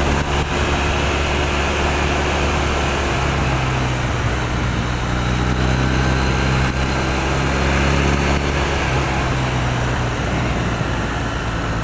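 2008 Triumph Bonneville's air-cooled parallel-twin engine running at a steady road speed, with wind rushing over the helmet microphone. The engine note shifts slightly a couple of times.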